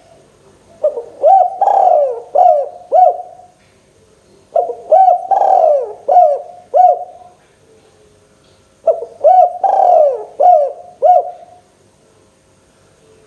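Spotted dove (tekukur) cooing: three phrases, each a run of several short, low, curved coo notes lasting about three seconds, with gaps of about a second between phrases.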